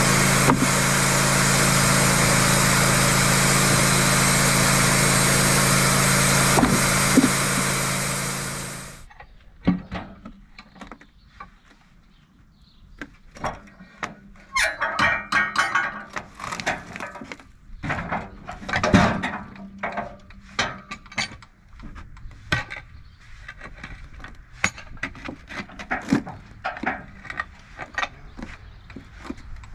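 Wood-Mizer sawmill engine running steadily, then stopping about nine seconds in. Scattered knocks and clatter follow.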